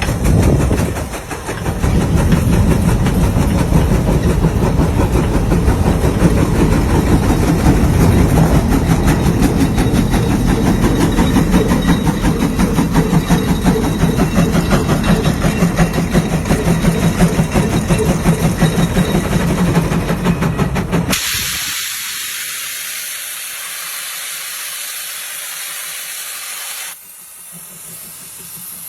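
Heavy tractor engine running loud with a fast, rhythmic pulse, then cutting abruptly about twenty seconds in to a steady hiss that grows quieter near the end.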